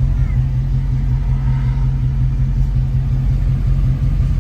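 Dodge Charger Scat Pack's 6.4-litre 392 Hemi V8 running at a steady pace, a constant low rumble with no revving.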